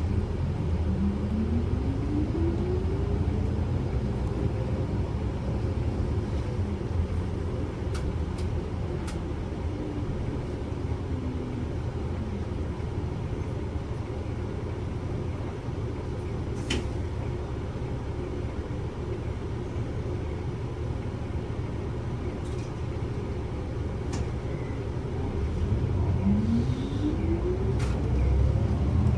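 Inside a Kyoto City bus: steady engine and road rumble. A whine rises in pitch as the bus gathers speed, once near the start and again near the end. A few faint clicks and rattles are heard along the way.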